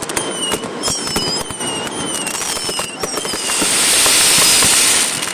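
Fireworks display: rapid bangs and crackling from bursting shells, with several short whistles that dip slightly in pitch. A loud hissing rush swells about three seconds in and fades near the end.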